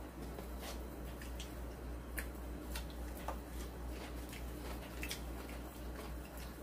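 Faint eating sounds of a person chewing braised semi-dried pollack, with scattered small clicks and wet mouth sounds at irregular intervals, over a low steady hum.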